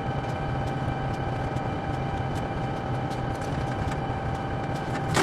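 Locomotive's 16-cylinder diesel engine idling steadily, with a constant whine over the low drone and faint regular clicks. A sharp click comes at the very end.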